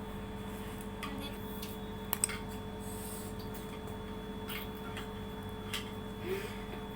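A steady hum, with scattered faint clicks of spoons against bowls as pasta is eaten quickly. A sharper double click comes about two seconds in.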